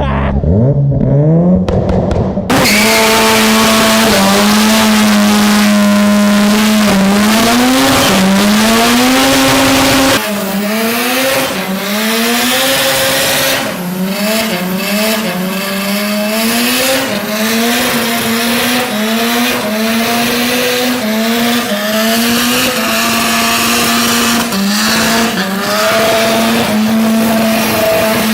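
Rotary engine held at high revs, its note wavering and stepping up and down again and again, over the squeal of spinning tyres.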